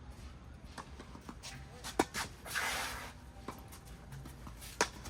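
Tennis ball struck hard by rackets during a rally: two sharp pops about three seconds apart, the first about two seconds in and the second near the end, with fainter ball bounces between them. A short scraping rush, typical of court shoes sliding, follows the first hit.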